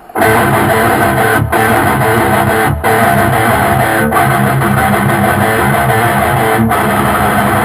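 Loud band music led by strummed electric guitar over bass, starting abruptly, with a few brief gaps in the rhythm.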